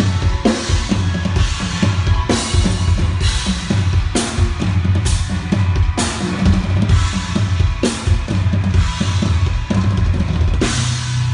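Drum kit played during a band sound check, with repeated cymbal crashes and bass drum hits, the cymbals ringing between strokes over a steady low bass. The last crash comes near the end and rings away while the bass holds.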